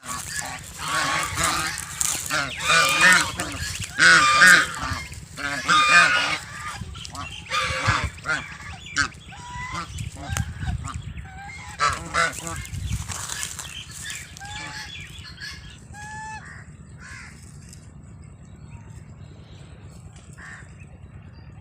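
Farm birds calling loudly and over and over for the first several seconds. The calls grow sparser and fade away after about seventeen seconds.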